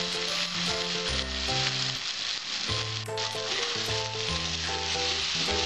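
Taro stolons and small shrimp sizzling as they fry in an aluminium kadai, stirred with a metal spatula, with a sharp click about three seconds in. Background music plays under the sizzle.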